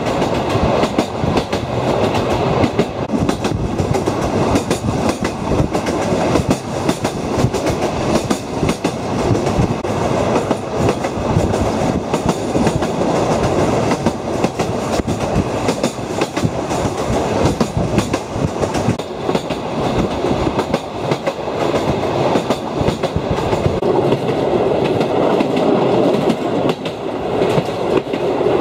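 Wooden-bodied train carriages running steadily along the track: a continuous rumble of wheels on rails with rapid, irregular clicking and rattling.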